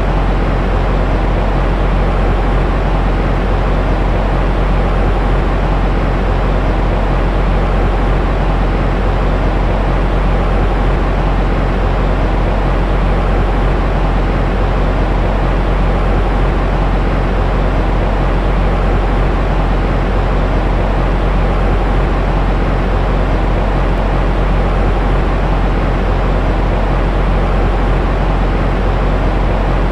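Steady white noise for soothing a baby to sleep, weighted toward the low end so it sounds like a deep, even rush with no changes.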